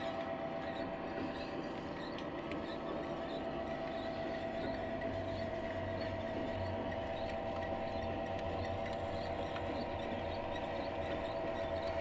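00 gauge model train running on the layout: a steady motor whine with light, regular ticking.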